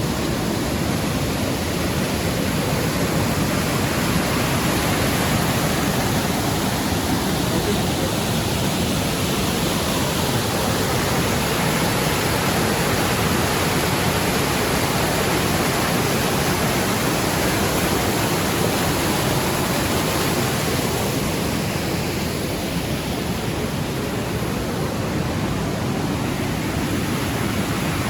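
Triberg waterfall's cascading water rushing, a loud, steady, unbroken noise.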